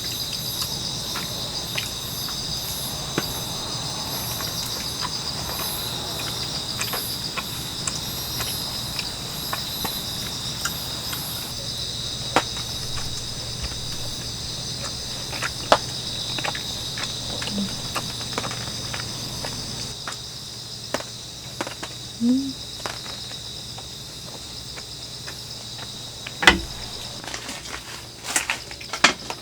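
Insects chirping steadily in a continuous chorus, with a few sharp clicks and knocks scattered through it; the loudest knock comes near the end.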